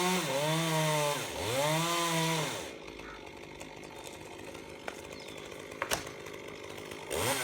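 Chainsaw revving to full throttle for about two and a half seconds, dipping briefly twice, then dropping back. After that it is quieter, with a sharp knock near six seconds, and another short rev climbs near the end.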